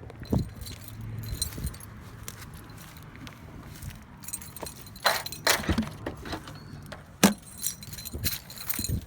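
Jangling and clinking as things are handled, with a cluster of sharp knocks about five seconds in and a louder single knock about seven seconds in.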